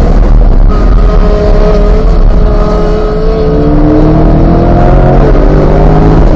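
Corvette C8's 6.2-litre V8 pulling hard under acceleration, its pitch climbing, then dropping with a quick upshift about three and a half seconds in before climbing again, over loud wind and road noise.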